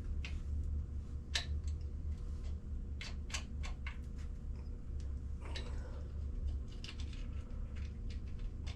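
Scattered light metallic clicks and taps of hand work fitting brackets and V-band clamps onto a marine raw water pump, with a quick cluster of them about three seconds in, over a steady low hum.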